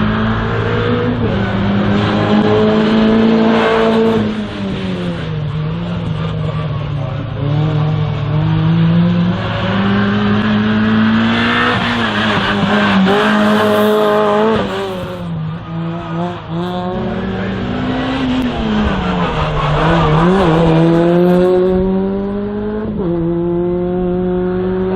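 Race car engine on an autoslalom run, its revs climbing and dropping over and over as the car accelerates and lifts between turns.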